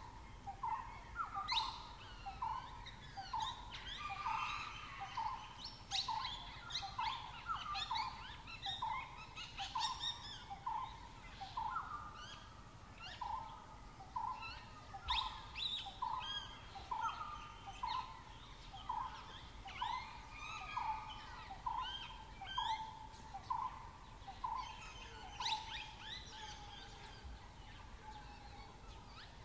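Forest birds calling. One repeats a single short, mid-pitched note about once every two-thirds of a second, and several others add brief higher chirps and whistles over it.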